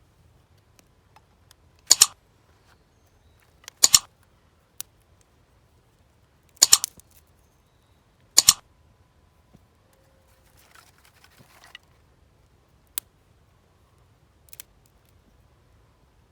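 Four loud, sharp knocks or cracks, roughly two seconds apart, each with a quick double strike; a few fainter single clicks and a brief soft rustle follow.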